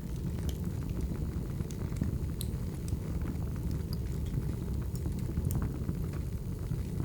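Wood fire burning: a steady low rumble of the flames with sharp crackles and pops from the burning logs scattered irregularly through it.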